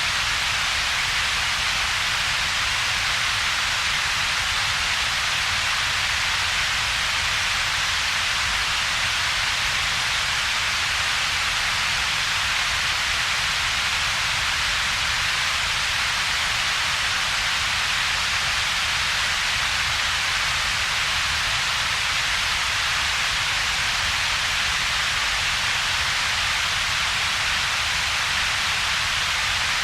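Synthetic double-peaked noise holding perfectly steady: a low rumble and a bright hiss with a hollow between them, like unbroken static or heavy rain.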